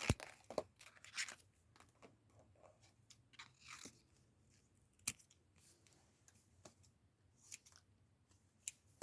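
Scissors trimming paper: a string of short, irregular snips and paper rustles, with the sharpest snip about five seconds in.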